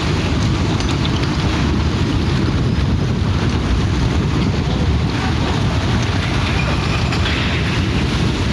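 Loud, steady rushing noise of strong wind and rough water, with the wind buffeting the microphone.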